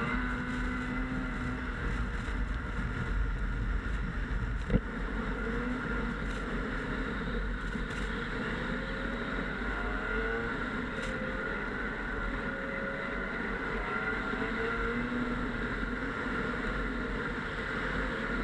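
Snowmobile engine running steadily under way, its pitch wavering slightly up and down with the throttle. A single sharp knock about five seconds in.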